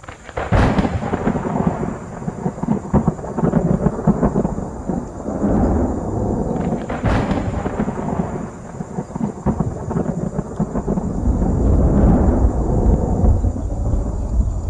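Thunder: a sharp crack about half a second in, then a long rolling rumble, with a second sharp crack about seven seconds in and the rumble swelling again near the end.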